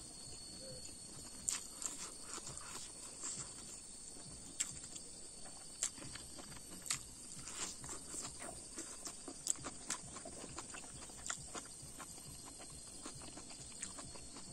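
Eating sounds: chewing and lip-smacking with sharp, irregular mouth clicks about once a second, over a faint steady hiss.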